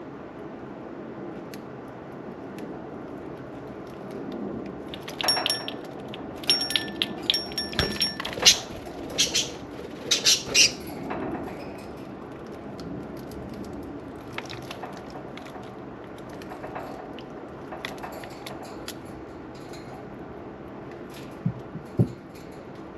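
Budgerigars chirping in a burst of short, sharp, high notes between about a quarter and halfway through, over the steady trickle of a small water fountain. Scattered faint clicks and splashes follow, with two low knocks near the end.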